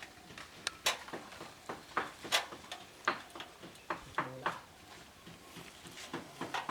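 A series of irregular sharp clicks and knocks, a dozen or so, unevenly spaced.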